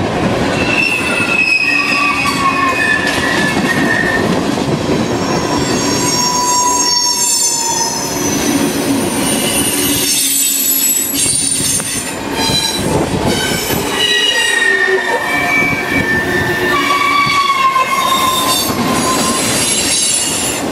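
Railroad cars rolling past close by, with a steady rumble of wheels on rail and wheels squealing in many short, shifting high pitches that come and go.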